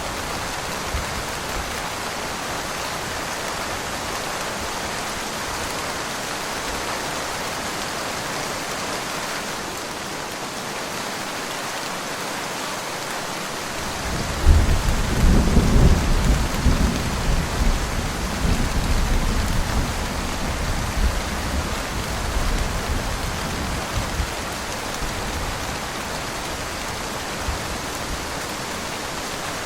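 Steady rain falling. About halfway through, a rumble of thunder breaks in suddenly and rolls on for several seconds before fading back under the rain.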